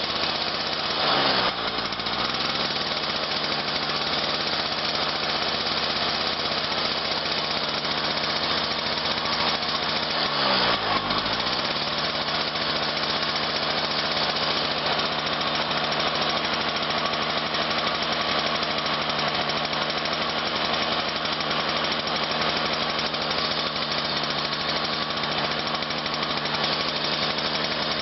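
Cold car engine with electronic ignition idling at about −10 °C just after a cold start, running steadily. Twice, about a second in and about ten seconds in, the revs briefly rise and then fall back.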